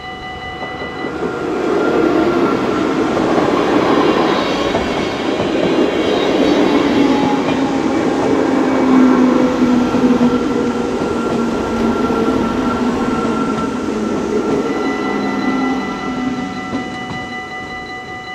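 NS Sprinter electric multiple unit passing over a level crossing: wheels on the rails rumble in about a second in, stay loud for some twelve seconds and fade near the end. The crossing's electronic warning bell rings at the start and comes through again as the train fades.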